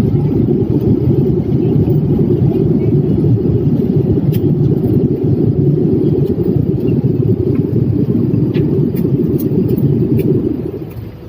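A loud, steady low rumble, like a large vehicle running, that drops away sharply near the end.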